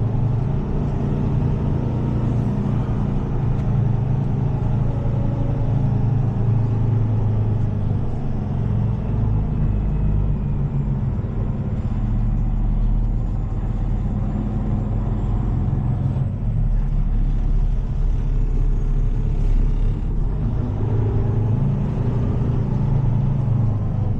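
Heavy tow truck's diesel engine running with a steady low rumble.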